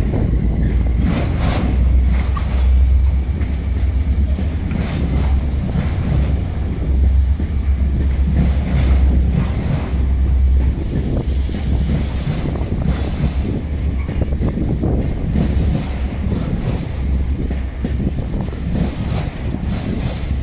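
Freight train rolling past, its wagons rumbling steadily with repeated clacks of wheels over rail joints and a faint thin wheel squeal through the first half.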